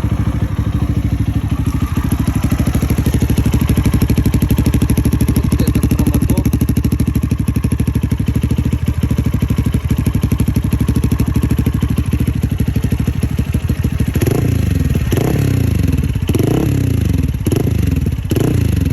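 Lifan KPS200 single-cylinder motorcycle engine idling through a new exhaust with a steady, even pulse, loud. About three-quarters of the way in the throttle is blipped about five times, the pitch rising and falling with each rev.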